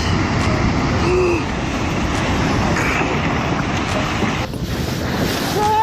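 Floodwater from a tsunami surging through streets, a loud steady rush of water, with a brief shout near the end.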